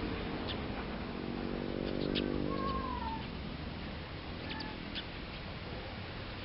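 A drawn-out, wavering animal call lasting about a second and a half, starting about a second in, with several short, high bird chirps scattered around it.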